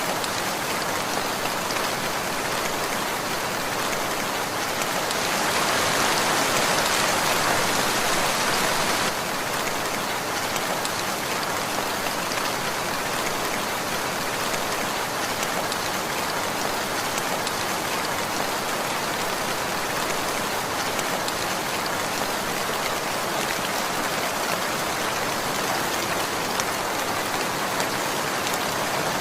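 Steady rainfall pattering on surfaces, growing louder about five seconds in and dropping back abruptly about four seconds later.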